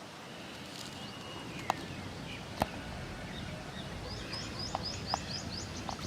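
Outdoor ambience with a steady background hiss. A couple of sharp clicks come in the first half, then a bird sings a quick run of high chirps about four seconds in.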